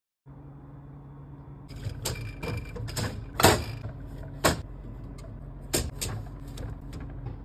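Items being set into and stacked in a refrigerator: a run of sharp clicks and knocks, the loudest about three and a half seconds in, over a steady low hum.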